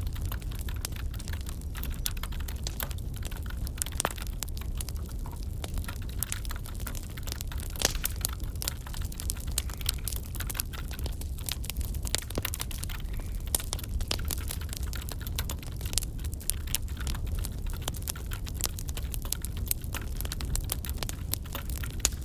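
Crackling wood fire in a fireplace: irregular sharp snaps and pops over a steady low rumble.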